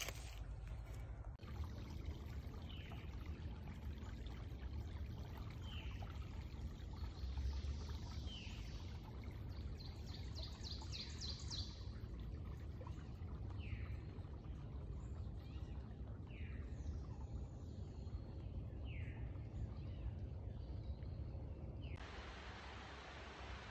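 Wild birds singing: short downward-slurred notes repeated every two to three seconds, with two fast high trills around the middle, over a low rumble. Near the end the sound cuts suddenly to a steady hiss.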